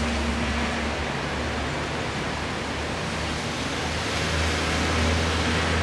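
Steady rain falling on tree foliage, an even hiss. A low steady hum runs underneath and grows a little louder near the end.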